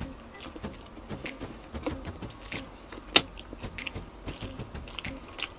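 Close-miked eating of roast chicken: soft wet chewing clicks and mouth smacks, with one sharper click about three seconds in.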